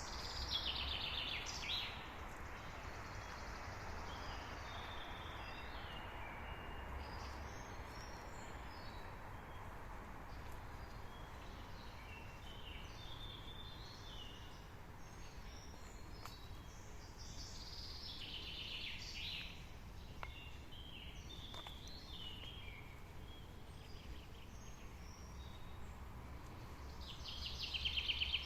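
Several songbirds singing and calling in a forest, with a louder, fast descending song phrase three times: near the start, about two-thirds of the way in and at the very end. A soft, steady background rumble runs underneath.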